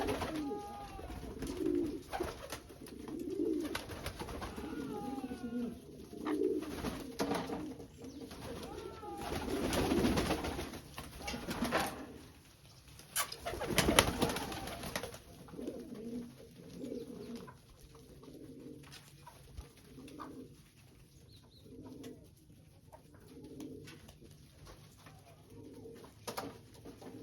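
English Pouter pigeon cooing: low repeated coos, settling into a steady run of about one a second in the second half. Two loud rustling noises come about 10 and 14 seconds in.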